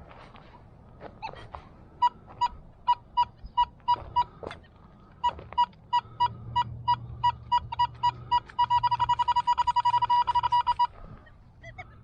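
Metal detector beeping on a target: short high beeps at one pitch, a few a second, that quicken to rapid beeping as it closes in on the target and then stop.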